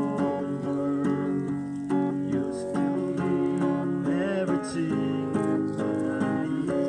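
Music: acoustic guitar strummed in a steady rhythm.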